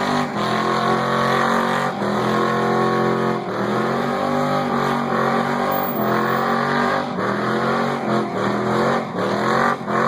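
Muscle car engine revved hard during a burnout, its pitch climbing in repeated pushes of about a second or so each, with short dips between them.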